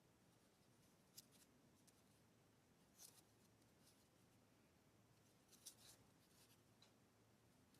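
Near silence with a few faint, sharp clicks: one about a second in, a short cluster around three seconds, and another near six seconds.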